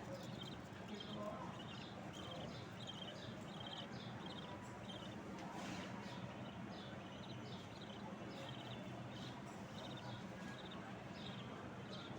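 Small birds chirping, a steady run of short high chirps, several a second, over a constant low background hum.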